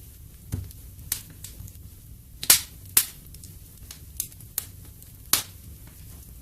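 Wood fire in a fireplace crackling, with a scatter of sharp pops, the loudest about two and a half seconds in, over a steady low rumble.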